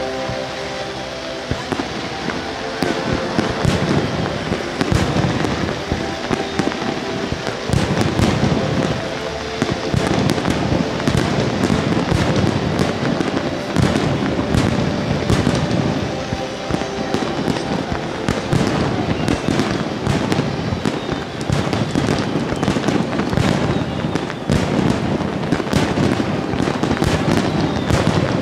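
Fireworks display: a dense, unbroken run of shell bursts and crackling, with heavy booms swelling in waves every few seconds.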